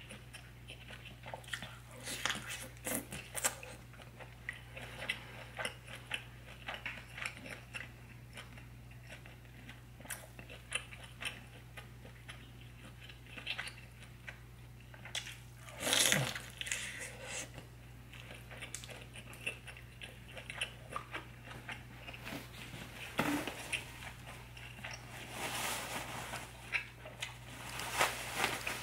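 Close-miked wet chewing and mouth clicks of someone eating buttery, sauce-coated seafood, with a louder mouth sound with a falling pitch about halfway through. A paper napkin rustles near the end, over a steady low hum.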